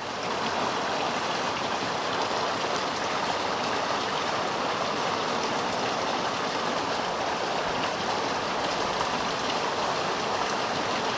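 Steady, fairly loud rainfall from a night thunderstorm, an even rushing hiss with fine pattering drops.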